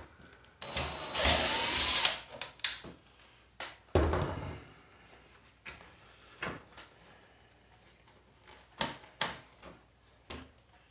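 Handling of tools while fetching a screwdriver: a loud rattling rush about a second in, then scattered clicks and knocks, the heaviest at about four seconds.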